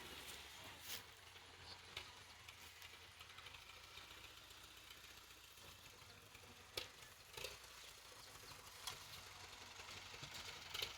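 Faint tractor engine running as a low, steady hum, with a few sharp clicks or knocks scattered through.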